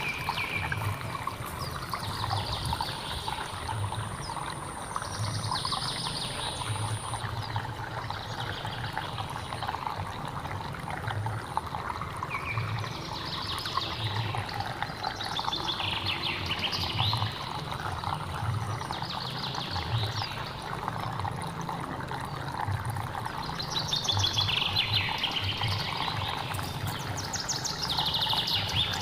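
Hill stream water running and splashing steadily over rocks. A bird calls over it every few seconds in short falling phrases.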